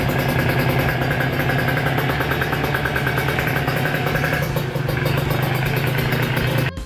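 Kawasaki Ninja 150 RR's single-cylinder two-stroke engine running steadily at an unchanging speed. It is cut off abruptly near the end by guitar music.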